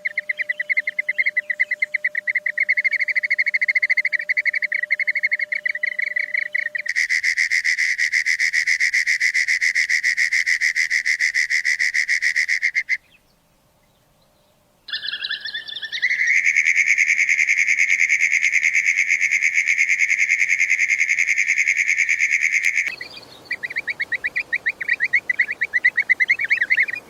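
High-pitched bird chirping in fast, dense trains, in several spliced stretches with a short gap of near silence about halfway through.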